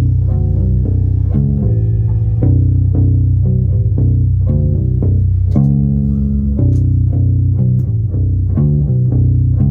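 Electric bass guitar playing a riff of plucked low notes in steady succession, each note ringing into the next.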